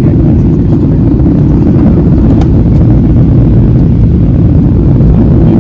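Steady low rumble of airliner cabin noise in flight, heard from a window seat: engine and airflow noise with no change in level.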